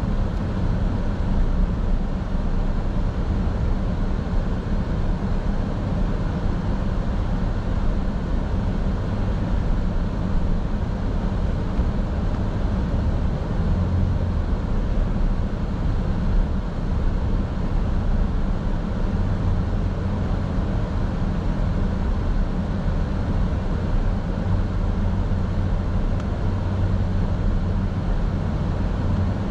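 Road noise inside a moving car: a steady low rumble of tyres and engine, with no change in pace.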